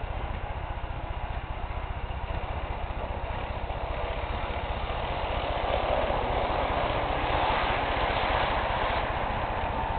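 Model train running along its track: a steady motor whir with a fast rattle of wheels over the rails, growing louder about halfway through as it comes closer, then easing slightly near the end.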